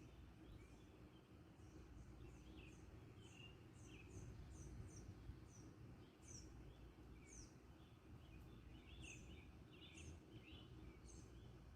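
Faint birdsong: short, high chirps that slide downward, repeated every half second or so, with a second bird's lower chirps joining about two-thirds of the way through, over a steady low rumble of background noise.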